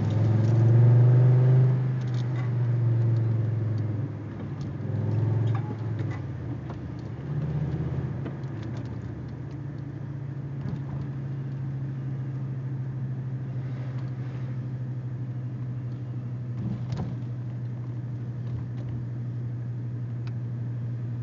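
Audi 80 B4 2.3E's inline five-cylinder engine, breathing through an aftermarket Fox exhaust, blipped up in revs four times over the first eight seconds, then settling to a steady idle.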